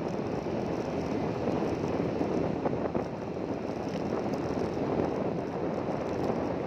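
Steady rumbling noise of a moving vehicle, with wind on the microphone.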